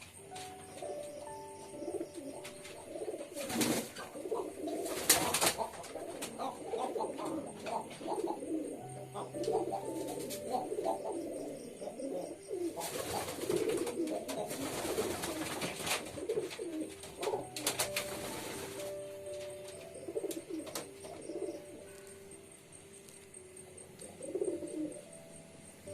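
Several domestic pigeons cooing together, their low warbling calls overlapping throughout, with a few louder rushes of noise, the longest about halfway through.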